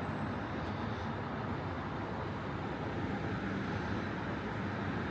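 Steady city street ambience dominated by the even noise of road traffic.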